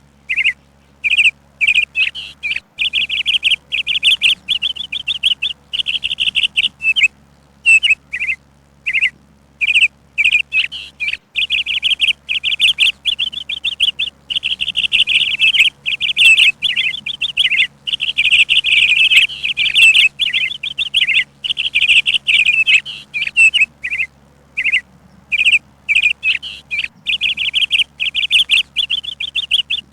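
Songbirds chirping in quick high notes, at first in short bursts with gaps, then in long unbroken runs of rapid chirps through the middle, and in bursts again near the end.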